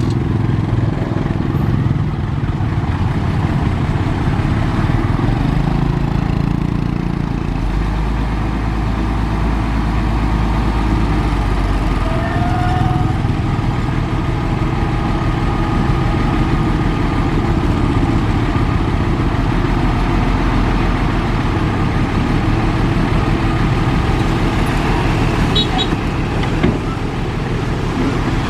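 Heavy diesel engine of earthmoving machinery running steadily under load. A deep low rumble strengthens about 8 seconds in and eases back about 12 seconds in.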